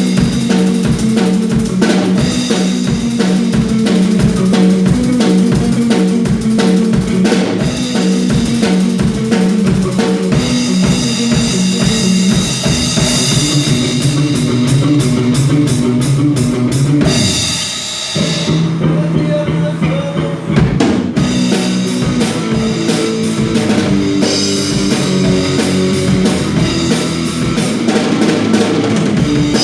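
Drum kit and electric guitar playing a worship-pop song together to a steady rock beat with kick, snare and cymbals. About two-thirds of the way through, the drums and cymbals drop out for a few seconds, then the full beat comes back.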